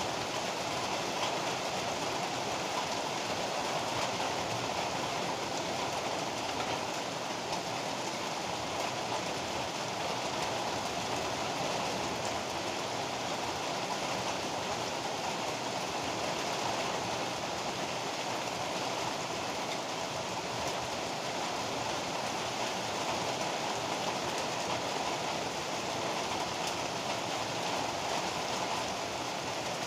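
Heavy rain pouring steadily, an even hiss with no thunderclaps.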